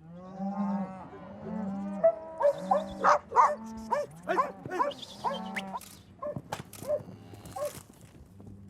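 Cattle lowing while herding dogs bark repeatedly as the herd is driven along.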